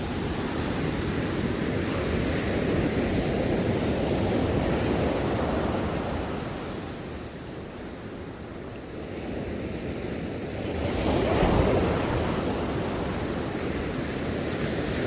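Ocean waves breaking and washing on a shore, a steady rushing surf that eases off in the middle and swells again with a wave breaking about eleven seconds in.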